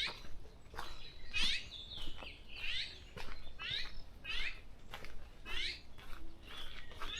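Small songbird calling: a short, fast run of high chirps repeated about once a second, with fainter chirps from other birds in between.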